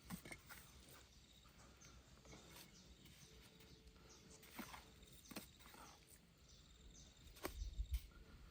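Near silence: a quiet outdoor background with a few faint, scattered knocks and clicks, the sharpest near the end.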